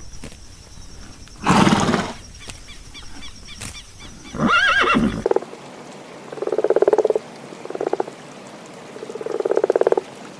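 A horse whinnies twice, about a second and a half in and again about four and a half seconds in. Then the sound cuts to a frog croaking in two long rattling series of rapid pulses.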